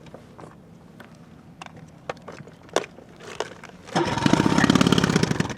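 A boat's outboard motor starts about four seconds in and runs loud with a fast, even pulsing for about a second and a half before dropping back. Before it come a few scattered light clicks and knocks.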